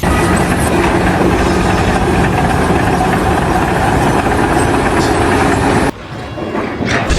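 Loud, steady engine or heavy-machinery noise that cuts off abruptly about six seconds in, then builds again near the end.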